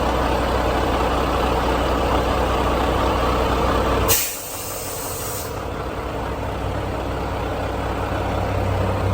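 Volvo semi truck's diesel engine idling with a steady drone. About four seconds in comes a sudden sharp hiss of air lasting about a second and a half: the recurring 'sneeze' from the truck that the driver cannot explain.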